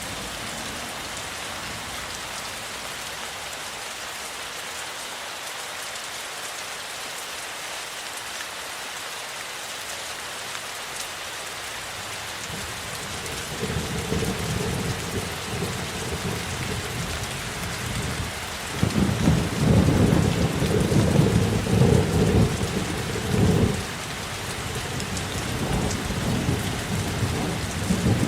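Steady heavy rain with a low rumble of thunder. The rumble rolls in about halfway through, is loudest a little past the middle, then eases off but keeps rumbling under the rain.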